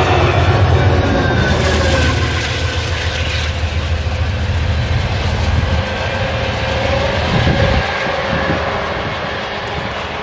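Amtrak passenger train passing on the rails: a heavy low rumble with wheel clatter, dropping away sharply about eight seconds in as the cars clear.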